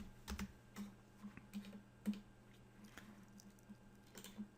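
Faint, scattered clicks of a computer keyboard and mouse as a scale value is entered, over a low steady hum.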